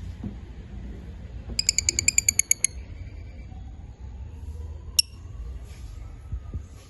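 African lovebirds chirping: a rapid, shrill chatter of about a dozen chirps lasting about a second, then one sharp single chirp a couple of seconds later, over a low steady rumble.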